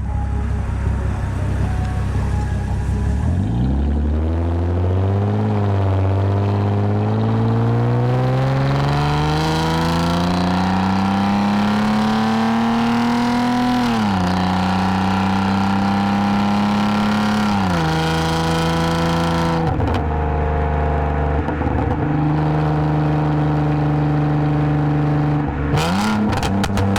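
2010 Lexus IS250 AWD's 2.5-litre V6 through a full aftermarket exhaust with valved mufflers, pulling away and accelerating with its note climbing steadily. The pitch drops at an upshift about halfway through and again a few seconds later, then the engine cruises at steady revs, with a short rise in revs near the end.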